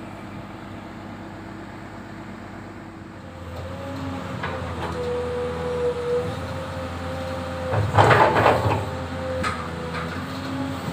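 Komatsu PC200-7 excavator running, its drone growing louder about three seconds in as a steady whine joins it. About eight seconds in comes a short burst of metal clanking and rattling, with a few single knocks after.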